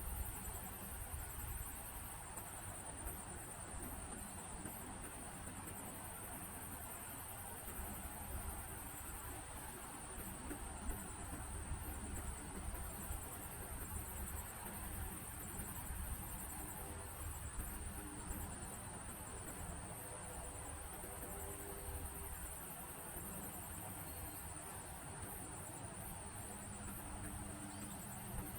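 Crickets chirring steadily in a high, fast pulsing trill, with louder stretches coming and going, over a low steady rumble.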